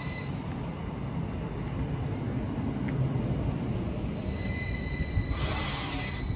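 Northern electric multiple unit running past close by along the platform, its wheels rumbling steadily. A thin, steady high whine comes in about four seconds in, with a short rushing noise near the end.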